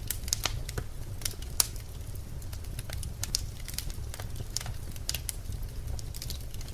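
Birch logs burning in a fireplace, crackling and popping irregularly over a low steady rumble of the flames, with a sharp loud pop about a second and a half in.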